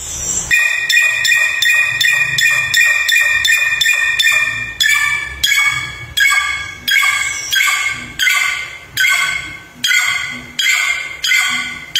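A samyong songbird singing a clear whistled song. It opens with a fast run of repeated ringing notes, about four a second. Then come downward-slurred whistles, about two a second, each starting sharply and fading.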